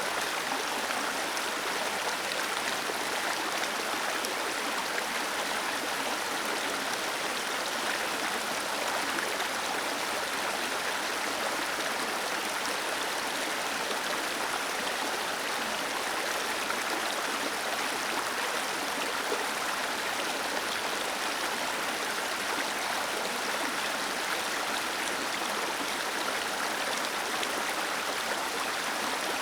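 Waterfall splashing and a stream rushing, as a steady even noise with no changes.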